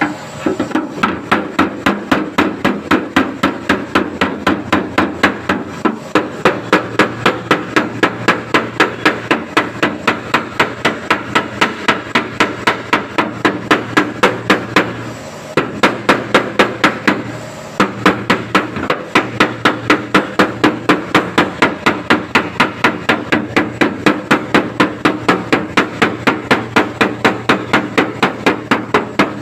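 Hammer striking a car's sheet-metal body panel in a fast, even rhythm of about three to four blows a second, with two short pauses about halfway through: panel-beating to work out a dent.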